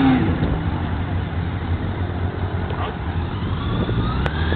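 Motorcycle engine idling with a steady low rumble. Near the end a second engine rises in pitch as it accelerates.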